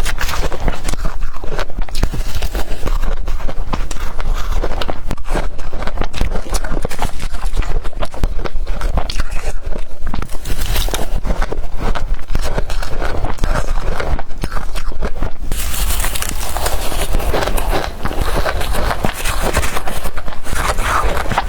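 Close-up crunching of blender-crushed ice being bitten and chewed: a dense run of sharp cracking clicks that grows thicker and brighter about fifteen seconds in.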